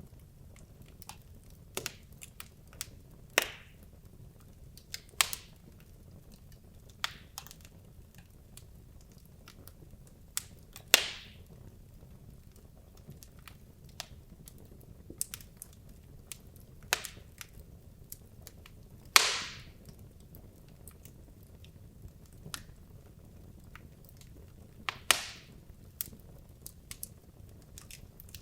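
Wood logs burning in a fireplace: irregular sharp crackles and pops over a low steady rumble of the fire, a few louder pops with a brief hiss after them.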